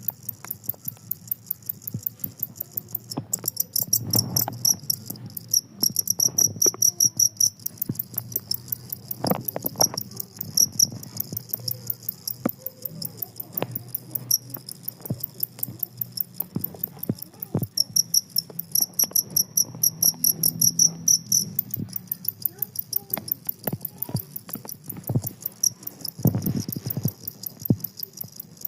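Two-spotted field cricket (jangkrik kalung, Gryllus bimaculatus) chirping in long trains of rapid, high-pitched pulses with only brief breaks, over a low background hum and scattered knocks.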